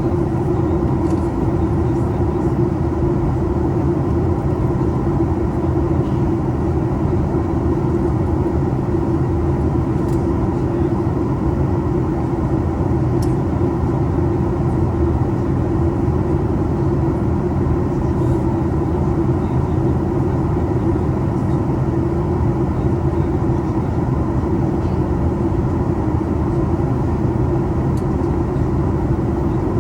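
Steady cabin drone of a Boeing 737 MAX 8 airliner: its CFM LEAP-1B engines and rushing air heard from inside the cabin, a deep, even noise with no change in level.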